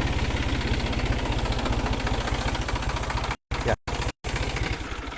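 New Holland 47 HP tractor's diesel engine idling with a steady, rapid, even beat. The sound drops out completely three times for a split second a little past the middle.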